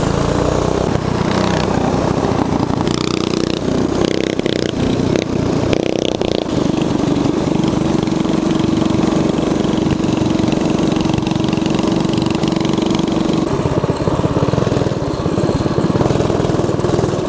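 Mini bike's Predator 212 single-cylinder four-stroke engine running while riding, the pitch changing for the first few seconds and then holding steady for several seconds in the middle.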